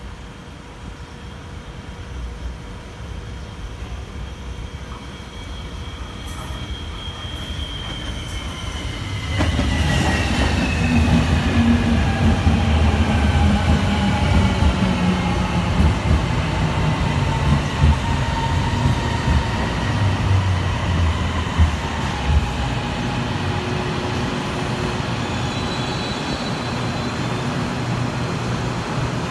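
Light-rail train pulling into a station. It grows louder as it approaches and rises sharply as it comes alongside about nine seconds in. Its motor whine then falls steadily in pitch as it brakes, and it settles to a steady hum as it stops.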